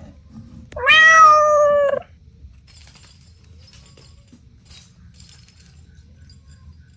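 A cat meowing once, a single drawn-out meow of about a second that starts a little higher and settles to a steady pitch before stopping abruptly.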